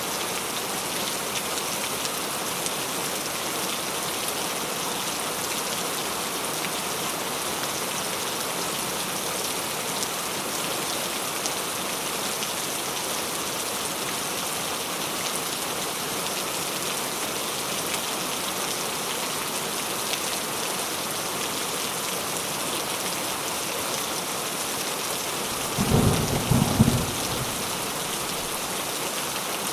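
Steady rain falling, an even hiss throughout. Near the end comes a short, low rumble of thunder.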